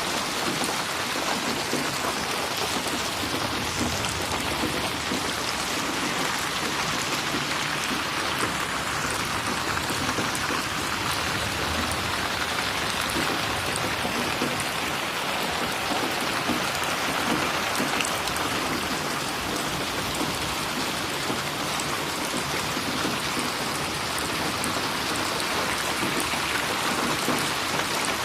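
Steady, moderately heavy rain falling, an even hiss dense with the patter of drops splashing on surfaces.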